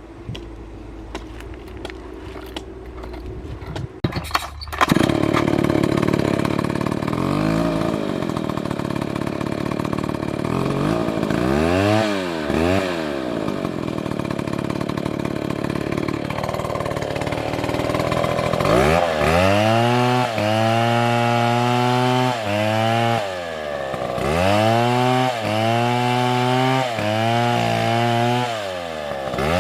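Chainsaw running low at first, then opened up to full throttle about five seconds in and cutting wood. In the later part its engine pitch dips and recovers again and again every second or two, bogging under load in the cut and revving back up.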